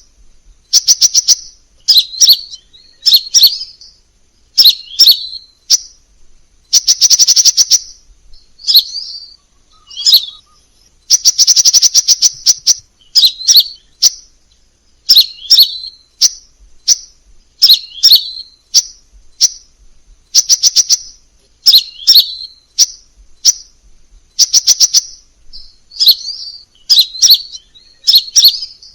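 Crimson sunbird song: short, high-pitched chattering phrases repeated about once a second, with two longer, rapid trills in the first half.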